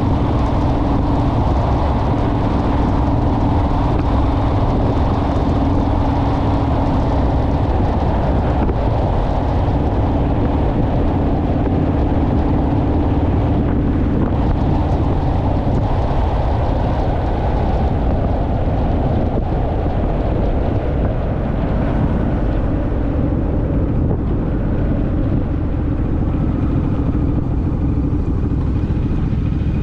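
Honda Rebel parallel-twin motorcycle running steadily at cruising speed, with heavy wind rush buffeting the microphone.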